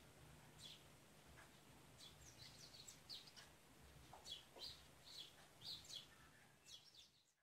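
Faint bird chirping: a loose series of short, high chirps over a low steady hum, cutting off suddenly at the end.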